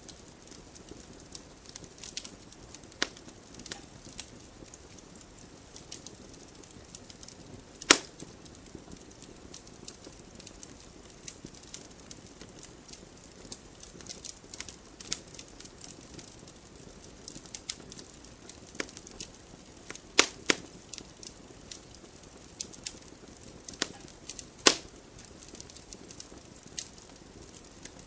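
Wood fire crackling in a fireplace: scattered small snaps and pops over a soft steady hiss, with three louder pops, one about a third of the way in and two more later on.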